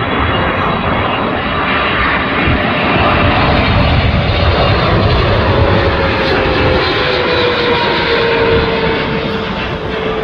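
Boeing 777-300ER on landing approach passing close by, its two GE90 turbofans a loud, steady jet rumble that swells to a peak midway. A whine falls slowly in pitch as it goes past.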